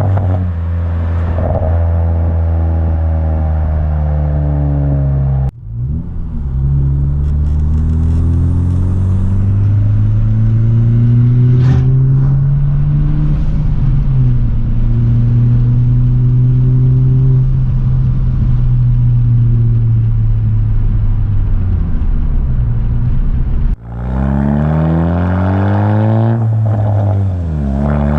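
Straight-piped 10th-gen Honda Civic turbo engine and exhaust running under way, a steady drone that rises and falls in pitch as the car speeds up and eases off, still fairly subdued because the stock catalytic downpipe is kept. The sound breaks off sharply and picks up again twice, about five and a half seconds in and near the end.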